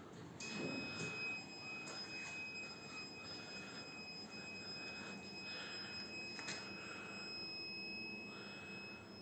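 A steady high-pitched electronic warning buzzer comes on about half a second in and keeps sounding, typical of a machine's dashboard alarm with the ignition on and the engine not yet running.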